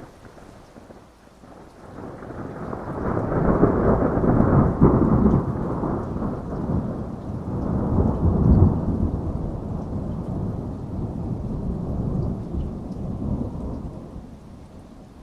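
A long rolling thunder rumble over steady rain. It swells in about two seconds in, peaks twice, then slowly dies away near the end.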